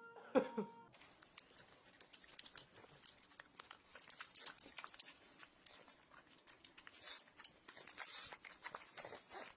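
A dog's short pitched whine or yelp, then a run of quick clicks and scuffling noises.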